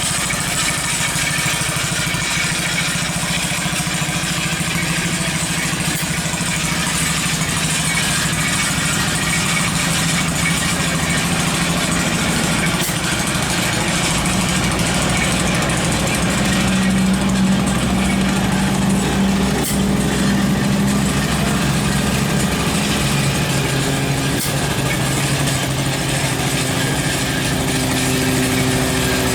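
Engine of a small homemade tractor running steadily. Its pitch rises for several seconds past the middle and then drops back.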